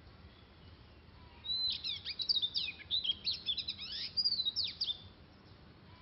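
Oriental magpie-robin singing: a rapid, varied run of whistled notes and quick pitch sweeps, starting about one and a half seconds in and lasting about three and a half seconds.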